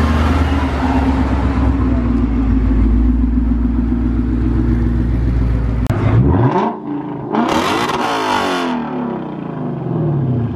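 A car engine idling with a steady deep rumble. About six seconds in, a Lexus RC F's 5.0-litre V8 is revved: the pitch climbs sharply, a loud rasping blast comes from the exhaust, then the revs fall away slowly.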